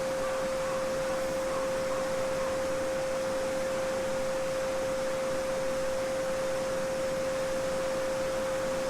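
A steady pure 528 Hz sine tone held without change, over the even rushing of a small babbling brook.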